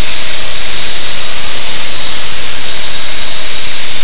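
Cessna 185 Skywagon's piston engine and propeller droning steadily in flight, heard loud inside the cabin, with a steady high whine over the drone.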